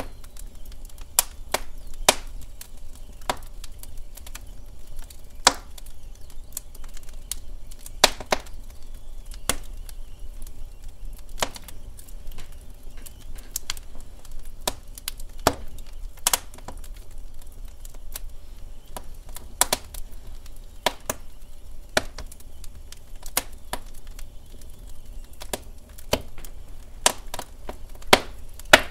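Wood fire crackling in a fireplace: irregular sharp pops and snaps from the burning logs over a low, steady rumble of the flames.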